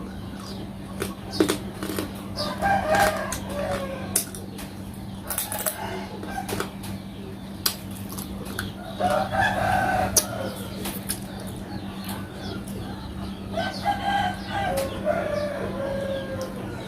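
A rooster crowing three times, each crow lasting a second or two and dropping in pitch at the end, with scattered sharp clicks and taps between the crows over a steady low hum.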